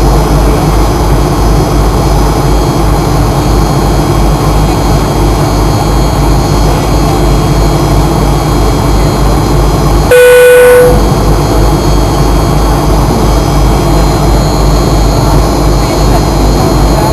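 Fokker 100's rear-mounted turbofan engines heard from inside the cabin: a loud, steady rumble and roar. About ten seconds in, a single brief tone sounds for under a second.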